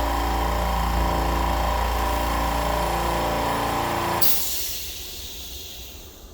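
Low-noise oil-less air compressor motor running steadily, then shutting off about four seconds in, followed by a hiss of released air that fades away.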